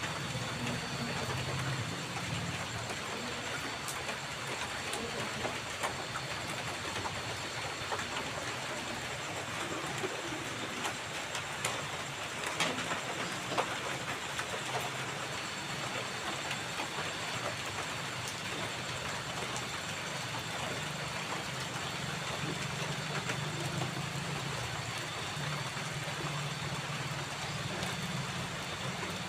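Light drizzle falling with a steady hiss and scattered drop ticks, over a continuous high-pitched trill of crickets and a low steady rumble underneath.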